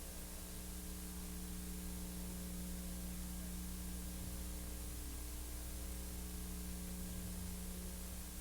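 Steady hiss with a low electrical mains hum and no other sound: the empty soundtrack of a silent film transfer.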